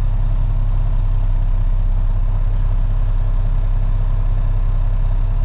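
Freightliner FLD truck's diesel engine idling steadily while parked, heard from inside the cab.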